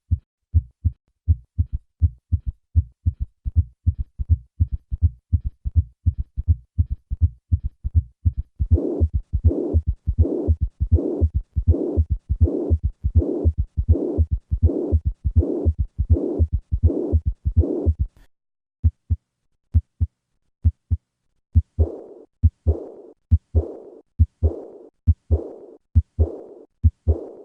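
Recorded heart sounds beating steadily as clicks, with extra third and fourth heart sounds giving a gallop. About nine seconds in, a blowing murmur of mitral regurgitation joins every beat. The sound cuts out briefly after about 18 s, resumes as heart sounds alone, and the murmur returns around 22 s.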